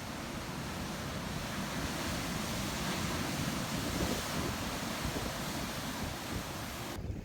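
Ocean surf: a steady rushing of waves breaking and washing in, swelling a little in the middle. Near the end the high hiss cuts off abruptly as the recording changes.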